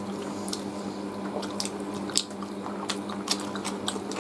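Close-up eating sounds of roast chicken eaten by hand: irregular wet mouth smacks and clicks of chewing and biting, with a sharper smack about two seconds in, over a steady low hum.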